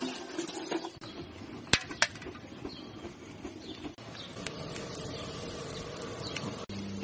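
Two sharp clicks about a third of a second apart, over a steady outdoor background hiss with a few fainter ticks.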